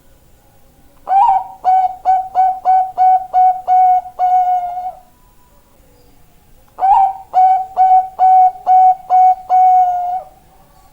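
Perkutut bangkok (zebra dove) singing twice: each phrase opens on a rising note and runs into a quick string of about seven clipped coos, the last held longer.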